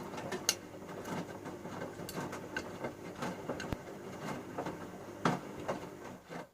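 Bauknecht Super Eco 6413 front-loading washing machine turning its drum during a wash phase. The motor hums steadily while the laundry and water tumble with irregular soft knocks and patter. The rotation stops abruptly near the end.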